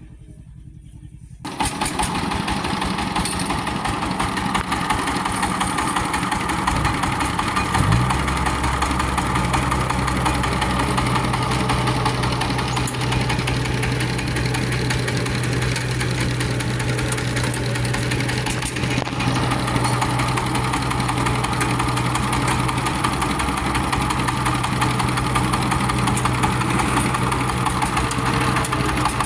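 Kubota rice combine harvester's diesel engine running steadily after cutting in suddenly about a second and a half in; its pitch rises briefly about eight seconds in, then holds steady.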